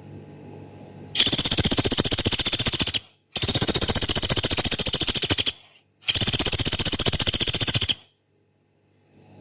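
Pelatuk beras, a small pygmy woodpecker, giving a long rough rattling trill three times, each burst of very rapid, even, high-pitched notes lasting about two seconds, with short pauses between.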